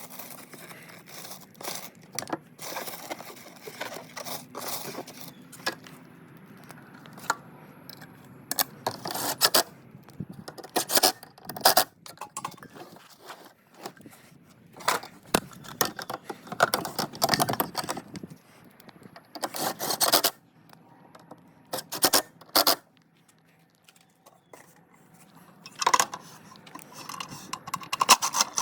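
Irregular scraping, clicking and rattling of ceiling fan parts and hardware being handled and fitted during installation, with a few sharp louder knocks and a brief quiet spell about two-thirds of the way through.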